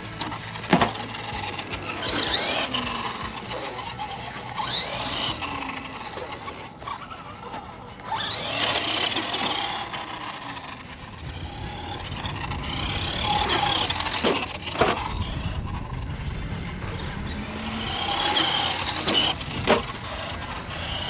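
Electric motor of a 1/10 scale RC monster truck whining up and down in pitch as it accelerates and slows, with tyre noise and a few sharp knocks from landings or hits, the loudest about a second in and near the end.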